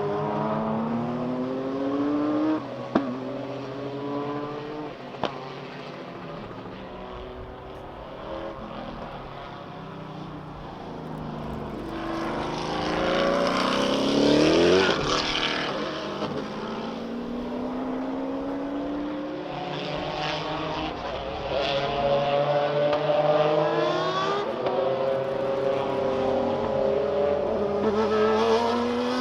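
Racing sports car engines accelerating through the gears on a circuit, each note climbing in pitch and then dropping back at every upshift. About halfway through, a car passes close by and its pitch falls as it goes. Two sharp cracks come around three and five seconds in.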